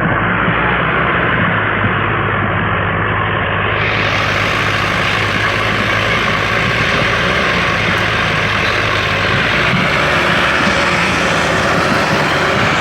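Sonalika tractor diesel engine running hard and steady under load.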